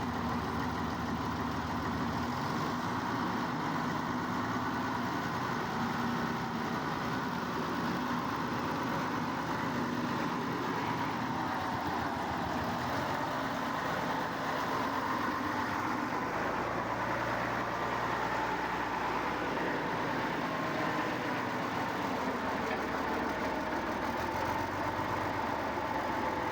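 A heavy diesel engine running steadily, its pitch shifting a little now and then.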